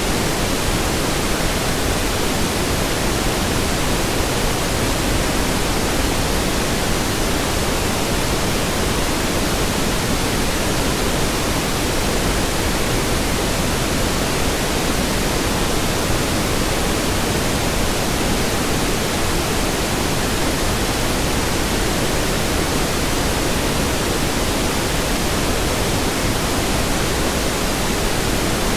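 Steady synthetic pink noise: an even, unchanging hiss spread across the whole range, without tones or breaks.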